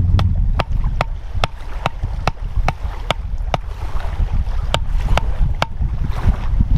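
Wind buffeting the microphone, with a run of sharp, evenly spaced clicks about two a second that pauses partway through and comes back briefly.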